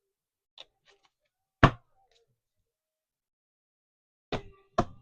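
Sharp knocks: a faint tick, then one loud knock about a second and a half in, and two more close together near the end.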